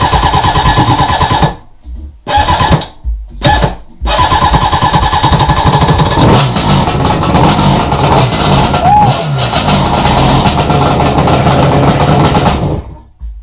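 Jetski engine running, cutting out about a second and a half in and catching twice in short bursts. It then runs again for about nine seconds, its pitch rising and falling, before stopping near the end.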